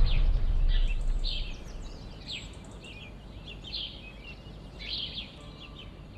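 Birds chirping: a string of short, sharp calls at irregular intervals over a low steady hum. The tail of a loud low rumble fades out over the first second and a half.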